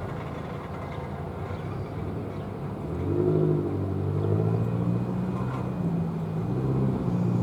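A vehicle engine: a low rumble that grows louder about three seconds in, with a pitched engine note that rises and wavers.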